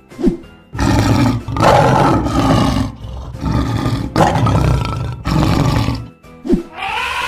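Lion roaring: a run of several rough roars, one after another, over background music.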